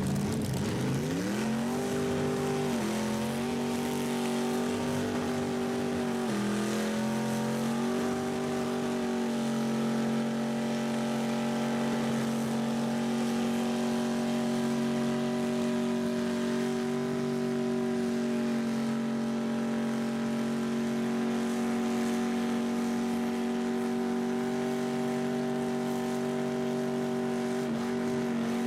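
A car engine revved up hard over the first couple of seconds, dropping back briefly twice, then held steady at high revs for the rest of the time.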